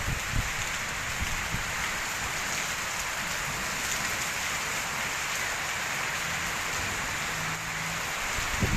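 Heavy rain pouring down steadily, a dense even hiss, with low gusty rumbles near the start and again near the end.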